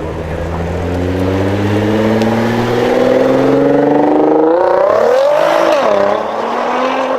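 Nissan GT-R R35's twin-turbo V6 pulling hard under acceleration, its note climbing steadily in pitch and getting louder. About five seconds in the pitch drops and wavers before picking up again.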